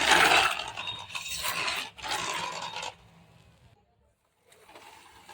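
Toy cars' wheels rubbing and scraping against the ground in three rasping strokes of about a second each, then a faint scraping near the end.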